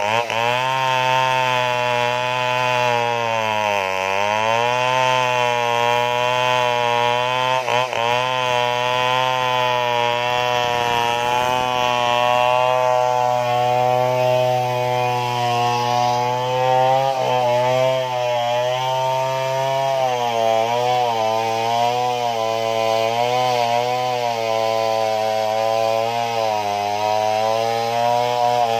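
Stihl two-stroke chainsaw running at high revs while cutting into a large tree trunk. Its pitch sags under load and recovers, with a deep dip about four seconds in and repeated wavering in the second half.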